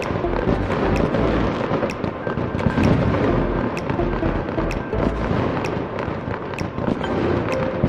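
Fireworks bursting and crackling continuously, many sharp cracks over a dense rumble, with music playing along.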